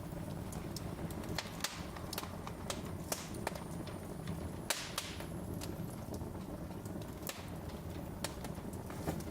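Wood fire crackling in a fireplace: irregular sharp snaps and pops over a steady low rumble of the flames, with a few brief hissing flare-ups.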